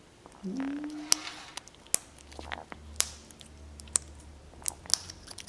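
A parrot cracking a sunflower seed in its beak: a series of sharp, irregular clicks and cracks, about six over a few seconds, after a short low vocal sound rising in pitch about half a second in.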